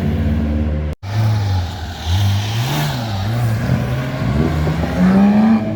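Classic car engines revving and accelerating, the pitch rising and falling as they pull through the gears. The sound drops out abruptly for an instant about a second in, then comes back with another engine.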